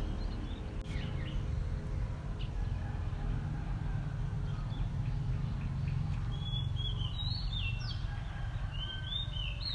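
Small birds chirping outdoors: a few faint chirps early on, then a quick run of high, rising-and-falling chirps toward the end, over a steady low rumble.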